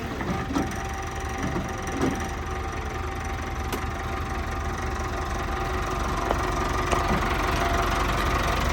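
Caterpillar 416B backhoe loader's turbo diesel engine idling steadily, with a few faint clicks over it.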